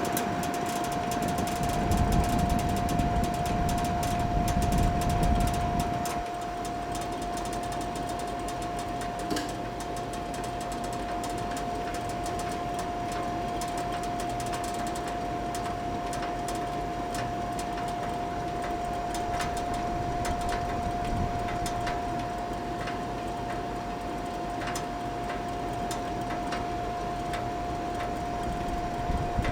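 Monitor 422 kerosene heater running with its casing off: a steady mid-pitched tone over a low mechanical hum, with scattered faint ticks. The low rumble drops noticeably about six seconds in.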